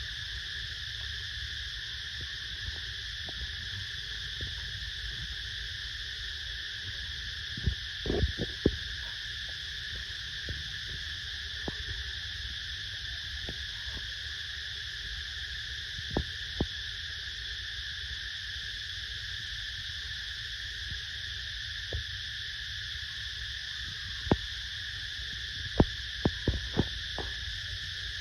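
A steady, unbroken high-pitched drone in two pitches over a low rumble, with scattered sharp clicks and knocks: a small cluster about a third of the way in and a quick run of them near the end.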